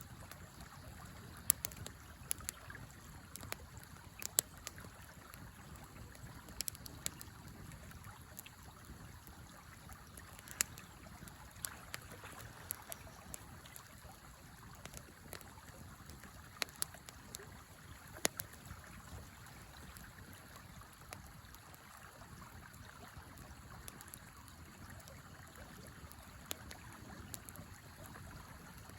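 Wood fire crackling, with sharp irregular pops every second or so over the steady rush of a river.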